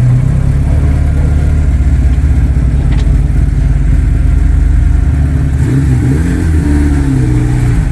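A car engine running loud and deep throughout, its pitch wavering briefly about six to seven seconds in as it is revved.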